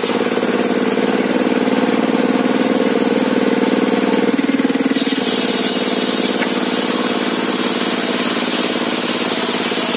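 Engine of a sawmill's table saw running steadily. Its tone changes about four seconds in, and a hiss rises about a second later.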